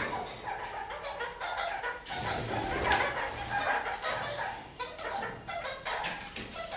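Red-crowned kakariki parakeets chattering, a continuous run of many short calls.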